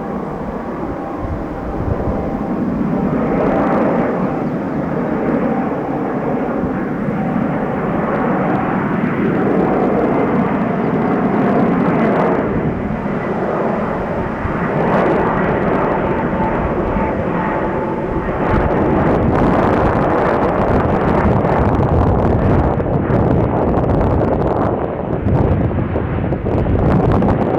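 Four-engine Airbus A380 jet airliner on approach: a steady jet roar with a faint whine held through most of it.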